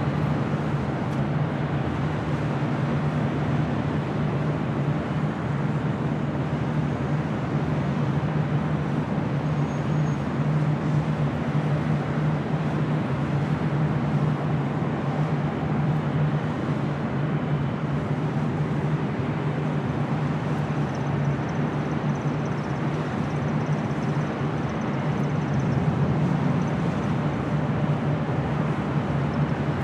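Lufthansa Airbus A380's four Rolls-Royce Trent 900 jet engines as a steady low rumble as the airliner climbs away after takeoff and banks left.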